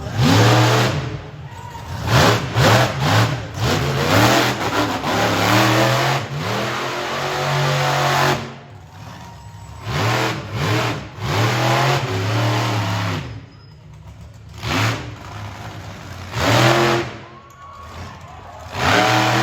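Monster truck engine revving hard in repeated surges, its pitch climbing and falling as the throttle is blipped, with a long sustained pull about four seconds in and brief drops to a lower idle between bursts.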